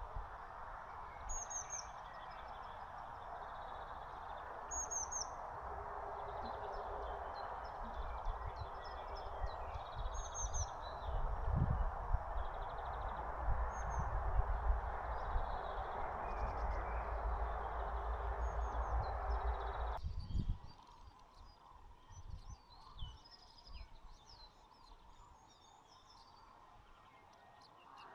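Small birds at a feeder, sparrows and tits, chirping in short high calls, over a steady background noise with a low rumble. About two-thirds of the way through, the background noise cuts off suddenly, leaving the chirps clearer and more frequent.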